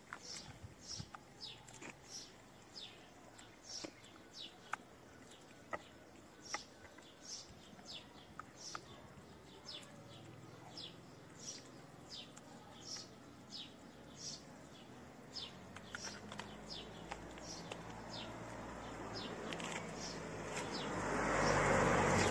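A bird repeats one short, high, falling chirp, about once or twice a second, over small clicks from kittens chewing wet cat food. Near the end a louder rustling noise swells up.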